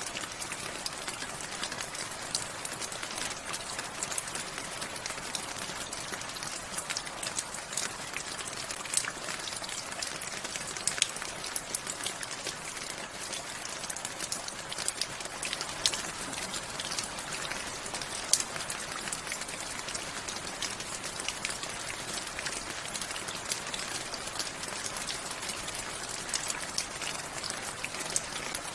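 Steady rain falling, an even hiss with many close individual drop ticks and a few louder drops splashing.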